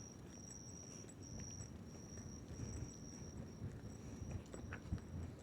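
Faint high-pitched insect trill, repeating in pulses about half a second long with short gaps, over a few faint low thumps.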